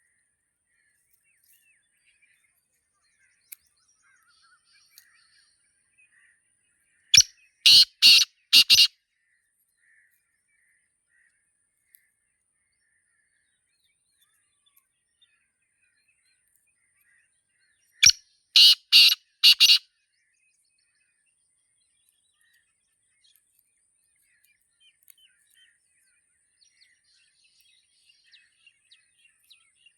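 Black francolin calling: two loud bouts of about four harsh, clipped notes each, roughly eleven seconds apart, with faint chirps of other birds in between.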